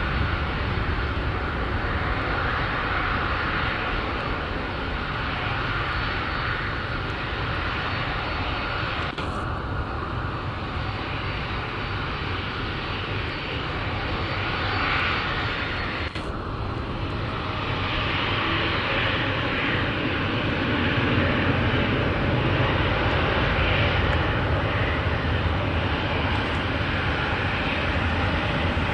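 Boeing 737-800 CFM56 jet engines running steadily at low thrust as the airliner lines up on the runway, a continuous whine and rumble that swells slightly past the middle. Two short clicks cut in, about 9 and 16 seconds in.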